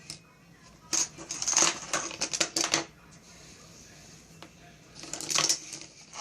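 Rapid hard clicking and clattering in two spells: a dense run of about two seconds starting a second in, and a shorter burst about five seconds in.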